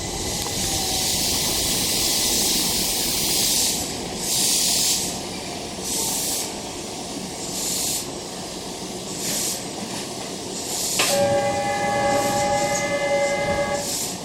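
A Keihan Keishin Line train running, with hissing noise that surges every second or two. About three-quarters of the way in, a train horn sounds: one steady chord held for about three seconds.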